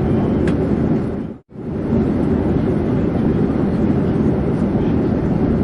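Steady, low drone of an airplane in flight, with no changes in pitch. It cuts out completely for a split second about a second and a half in, then carries on as before.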